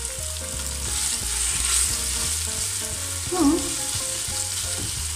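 Chopped tomatoes and carrots sizzling in a pot while being stirred with a plastic slotted spoon. A short louder sound comes about three and a half seconds in.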